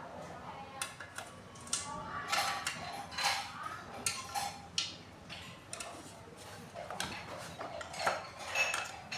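Irregular metallic clinks and taps of a hand tool against metal parts as bolts are screwed into a water pump being reassembled.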